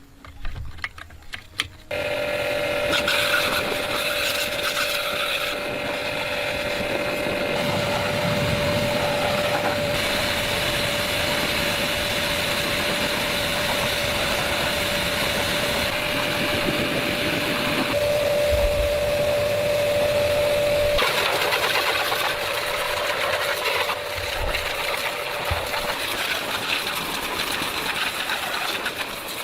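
A few clicks and knocks, then about two seconds in a motor starts and runs steadily with a constant whine, its sound shifting a few times as the load or work changes.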